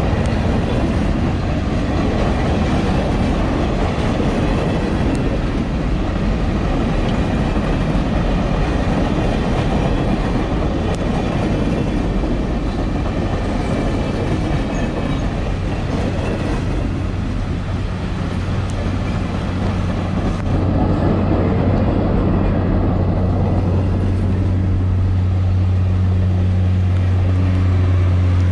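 Excursion train running: a steady low hum under continuous rail and wheel noise, with another steady tone coming in about three-quarters of the way through.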